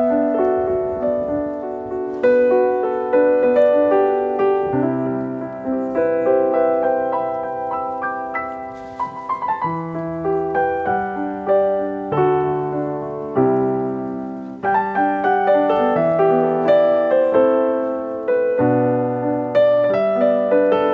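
Background piano music: a gentle melody over low notes, played in a steady flow of notes.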